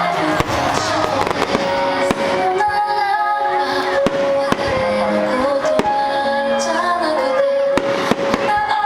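Fireworks bursting at irregular intervals, a dozen or so sharp bangs and crackles, over loud show music with a singing voice.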